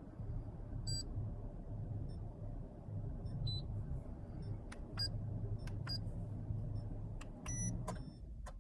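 Car engine running steadily with a low rumble, with several short high beeps and sharp clicks over it.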